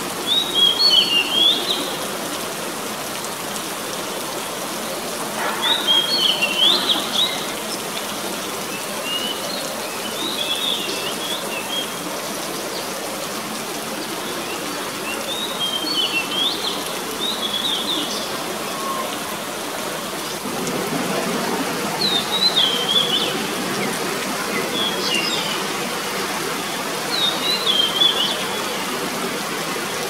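Songbird calls: short, twisting chirp phrases repeated every few seconds, about eight in all, over the steady hiss of falling rain.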